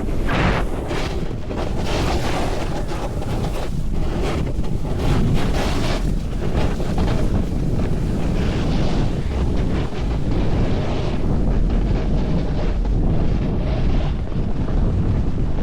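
Wind buffeting the microphone at speed, with a steady low rumble and swells of hiss every few seconds, like a snowboard's edges scraping over the snow through turns.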